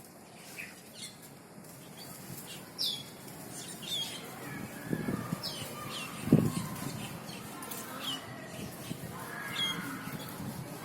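Cucak keling calling: short, sharp notes that sweep downward, repeated about once a second, over softer whistled chatter. A single low thump about six seconds in is the loudest sound.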